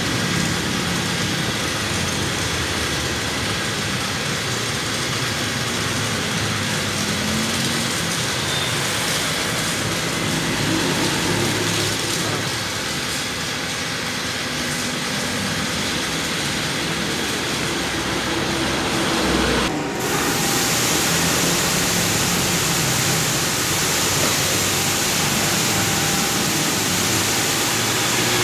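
Car wash spraying water over a car, a steady loud rushing hiss with machinery running underneath. About twenty seconds in it breaks off for a moment and comes back brighter and hissier.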